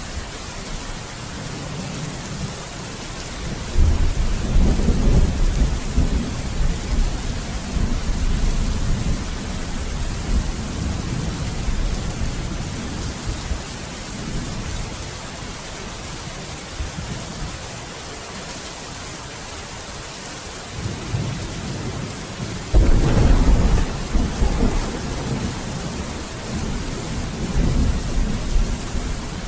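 Steady rain hissing, with two rolls of thunder: one breaking suddenly about four seconds in and rumbling on for several seconds, and another breaking suddenly near the end.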